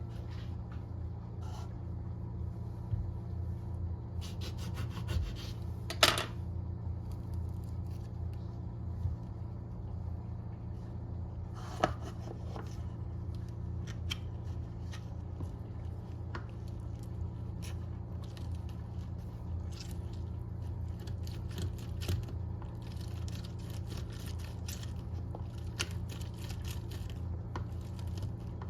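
Small clicks and short scrapes of hand work in a kitchen, scattered and irregular, with two sharper knocks about 6 and 12 seconds in, over a steady low hum.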